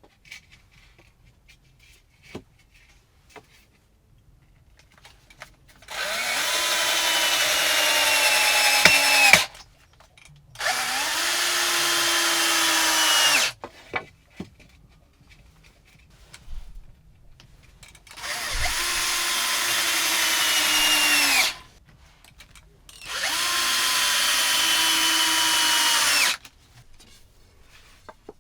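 Electric drill run in four bursts of about three seconds each, spinning up at the start of every burst, with light handling knocks in the gaps between.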